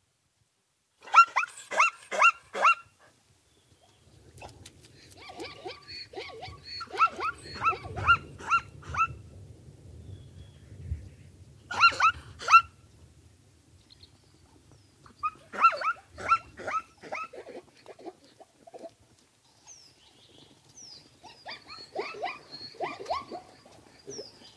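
Animal calls: bursts of short, sharp, high yapping calls in quick series, repeated five times with pauses between.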